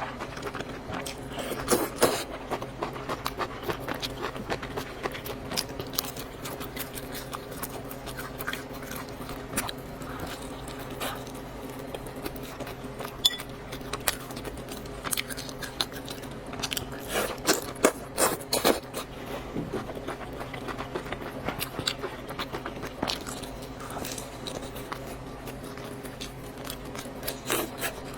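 Close-miked eating sounds: chewing with scattered sharp clicks and scrapes, over a steady low hum.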